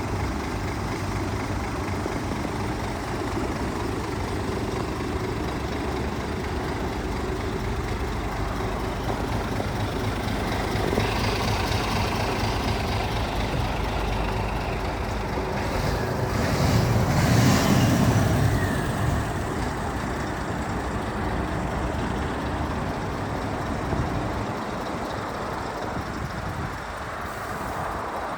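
Scania P370 truck's five-cylinder diesel engine running steadily, growing louder for a few seconds about two-thirds of the way through.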